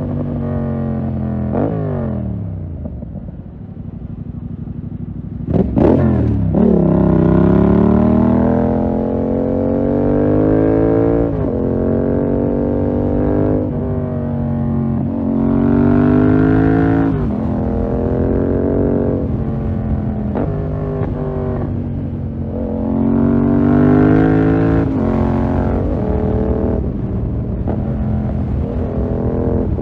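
2020 Yamaha MT-07's 689 cc parallel-twin engine through a full SC-Project 2-1 exhaust, accelerating repeatedly through the gears. The pitch climbs and drops sharply at each upshift. It eases off a few seconds in, then a sharp crack about six seconds in is followed by a hard pull again.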